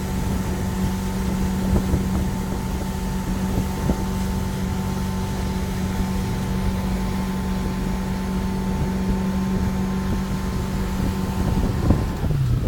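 Motorboat engine running steadily at speed, with wind buffeting the microphone. Near the end the engine note drops in pitch as it slows.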